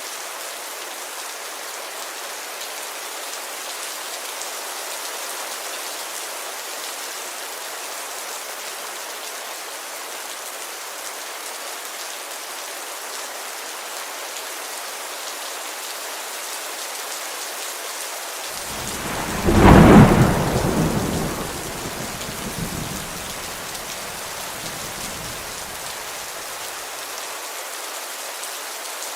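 Steady rain beating on a window, with a single clap of thunder about two-thirds of the way through that rumbles away over several seconds.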